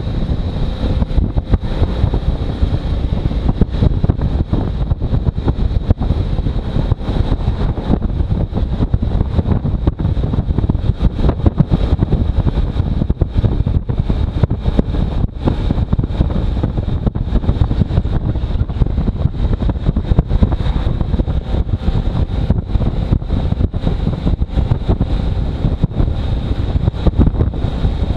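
Heavy, gusting wind buffeting the microphone on a moving motorcycle, a dense low rumble that flutters throughout, with a faint steady high whine under it.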